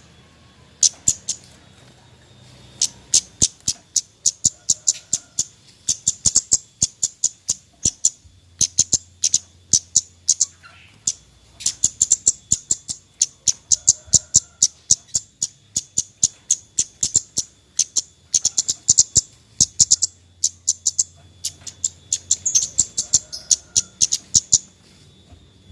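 Scarlet-headed flowerpecker (kemade, cabai Jawa) giving its 'nyecret' call: very short, sharp, high chips in rapid runs of several a second, broken by brief pauses.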